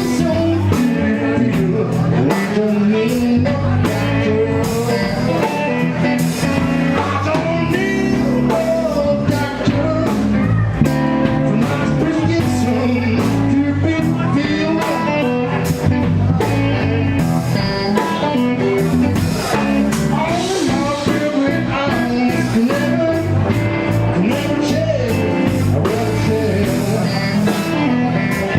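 Blues-rock band playing: electric guitar lines bending over bass and a steady drum beat.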